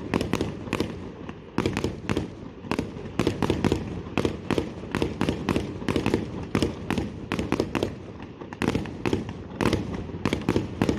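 Fireworks display: a rapid, irregular barrage of bangs, several a second, with no break.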